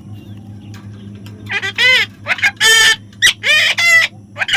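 Parrot squawking: a run of about six loud, harsh calls, starting about a second and a half in.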